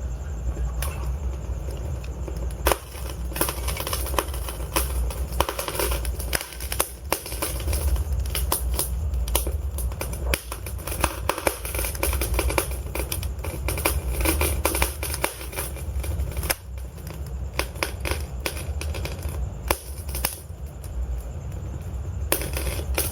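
Log fire crackling, with dense, irregular snaps and pops over a steady low rumble of the flames.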